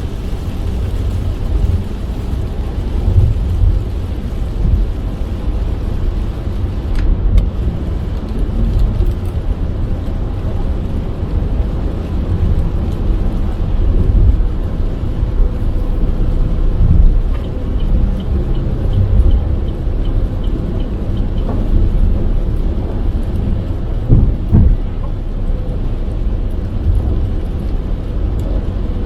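Car driving in heavy rain: a steady low rumble of tyres and engine on the wet road, with rain noise over it. A short run of faint, evenly spaced ticks comes a little past the middle.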